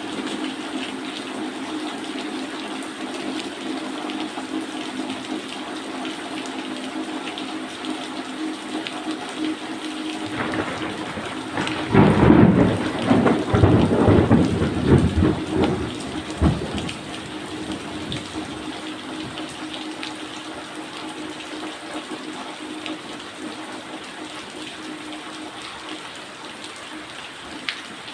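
Steady rain falling, with a roll of thunder starting about ten seconds in, loudest around twelve seconds and rumbling on for several seconds.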